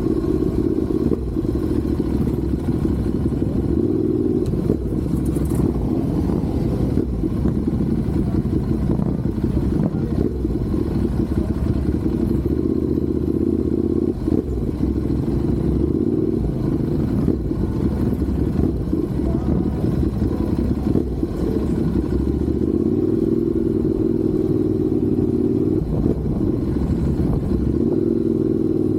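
Motorcycle engine running while riding, its pitch drifting up and down as the revs change.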